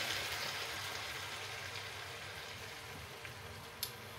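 Pork in gochujang sauce sizzling in a stainless steel frying pan, a steady sizzle that slowly fades, with a light click near the end.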